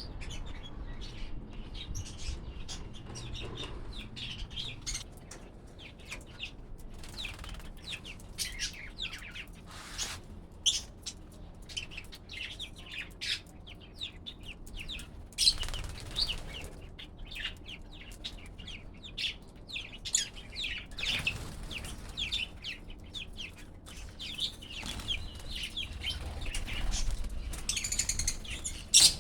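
Small pet parrots chirping in quick, repeated short calls, with occasional bursts of wing flapping.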